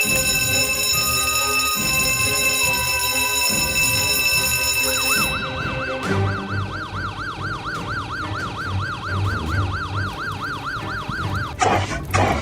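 Fire engine siren yelping, its pitch sweeping up and down quickly, about three to four times a second. It starts about five seconds in over steady held tones, and a few sharp knocks come near the end.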